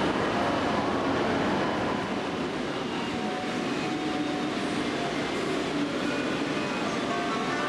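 Train running at a station: a steady running noise, a little louder in the first two seconds and then holding even.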